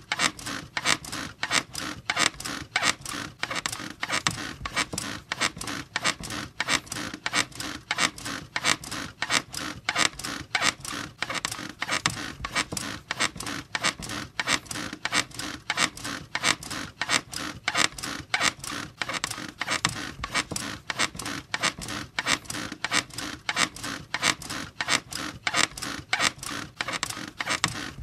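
Bed squeaking in a fast, steady rhythm, about three to four creaks a second, as springs and frame are rocked repeatedly.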